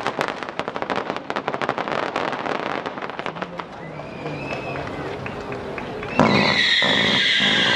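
Fireworks crackling in a dense rapid run of small pops that thins out. About six seconds in, a loud, steady, shrill whistling screech starts suddenly and holds.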